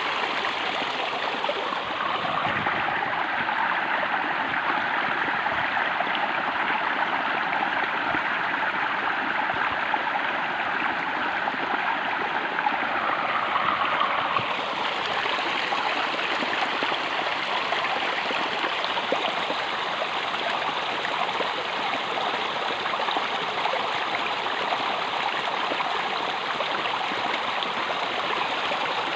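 Flowing stream water, a steady rushing and gurgling that changes slightly in tone about halfway through.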